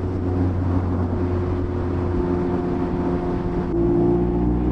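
Mazda MX-5's 1.5-litre four-cylinder engine running steadily while cruising. About three and a half seconds in it gets a little louder, with a small drop in pitch.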